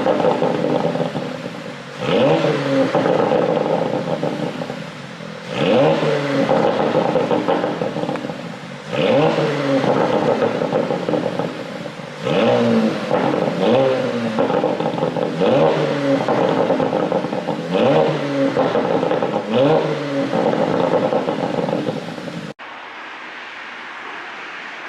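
Porsche Panamera 4 E-Hybrid's twin-turbo V6 blipped about eight times, each rev rising quickly and falling back with exhaust pops and crackles on the overrun. Near the end the sound cuts abruptly to a quieter, steady noise.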